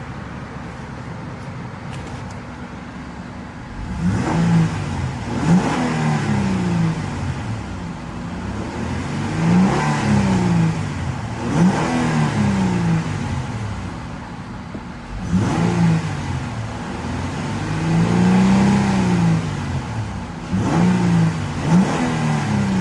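Honda Pilot's 3.5-litre single-overhead-cam V6 idling steadily, then revved about four seconds in: about six free revs, some quick blips and some longer rises and falls in engine speed, each dropping back to idle.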